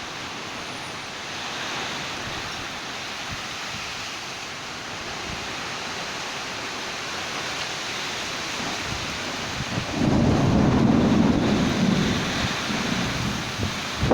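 Thunderstorm: a steady hiss of rain and wind, then a loud rumble of thunder breaking out about ten seconds in and rolling on for a few seconds.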